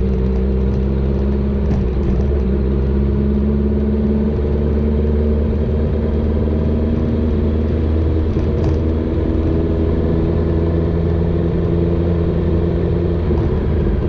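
Honda CBR650R's inline-four, fitted with a full replica Akrapovic exhaust, running under way at a fairly steady engine speed, its note drifting only slightly.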